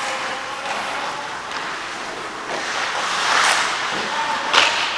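Hockey skate blades scraping and carving the ice during play, a steady hiss that swells about three seconds in, with one sharp crack near the end.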